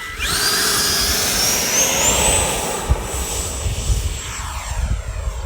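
Radio-controlled model jet's engine whining as it powers up, the high pitch climbing in steps and then holding, with the tone sweeping as the model moves. Wind rumbles on the microphone underneath.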